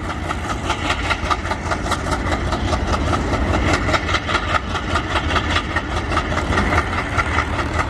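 Indian Railways WDM3A diesel-electric locomotive's ALCO 251 sixteen-cylinder engine running steadily, with a deep rumble and a fast, even pulsing beat.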